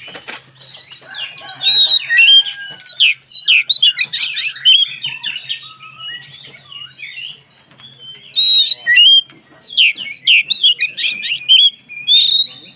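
Oriental magpie-robin (kacer) singing a fast, varied song of sweet whistles and chattering notes in full, vigorous voice, in two loud stretches with a short lull around the middle.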